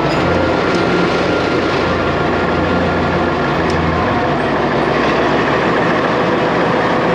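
Taiwan Sugar narrow-gauge diesel locomotive hauling loaded sugarcane wagons, running steadily with a low engine drone under the rumble of wheels on the rails.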